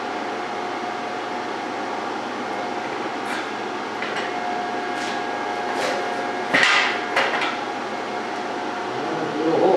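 A handful of irregular knocks and clanks on metal, the loudest about two-thirds of the way in and another near the end, over a steady hum.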